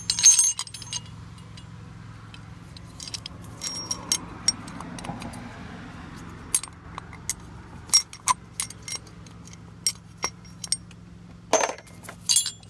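Small metal objects being handled, giving a dozen or so sharp metallic clinks and rattles spread through the stretch. The loudest are right at the start and a longer rattle near the end, over a low steady hum.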